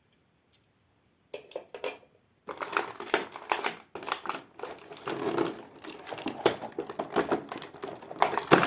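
Plastic toys being handled, with rapid clicking and clattering. It starts with a few clicks, then becomes a dense run of clicks about two and a half seconds in.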